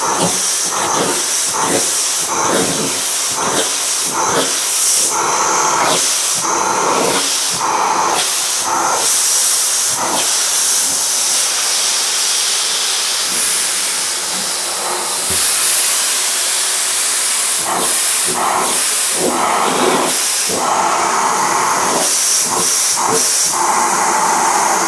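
Vacuum cleaner running while it is drawn over a cat's fur: a loud, steady hiss of rushing air that surges and falls every second or so as the nozzle moves.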